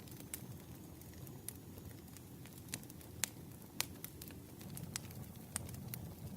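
Campfire crackling: a steady low rustle of burning wood with sharp, irregular pops and snaps, about seven in the span.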